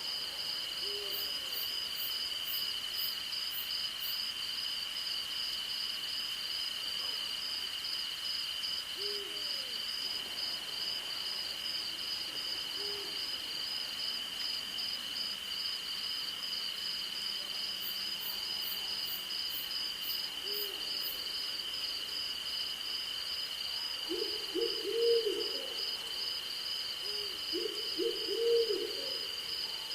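Night-time insect chorus of crickets, a steady high trill with a faster pulsing trill above it, under short low owl hoots. The hoots come now and then, and two louder clusters of them come near the end.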